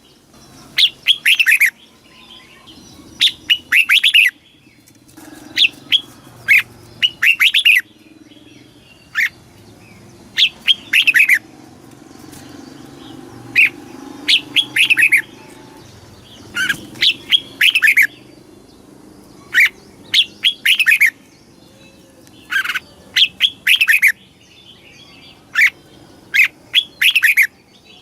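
Red-whiskered bulbul singing: short phrases of quick, descending whistled notes, repeated every second or two and often doubled, over a faint low background hum.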